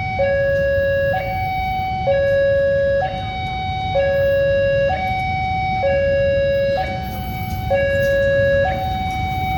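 Railway level-crossing warning alarm sounding a steady two-tone alternation, a lower and a higher tone each held just under a second, over a low rumble of road traffic. It is the crossing's new alarm, close to the common Indonesian crossing alarm and only slightly different.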